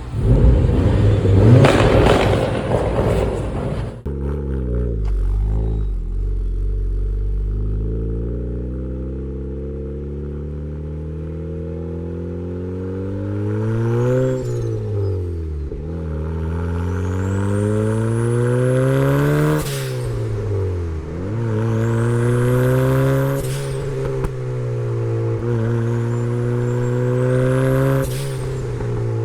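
Turbocharged Mk1 Mazda MX-5's four-cylinder engine accelerating hard, its revs climbing and dropping back several times through gear changes and lifts. A high turbo whistle rises steeply with each pull in the second half. The first few seconds hold a loud rushing noise that cuts off suddenly.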